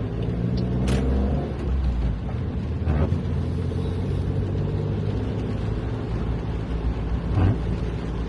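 Car driving, heard from inside the cabin: a steady low engine and road drone, with a few brief knocks.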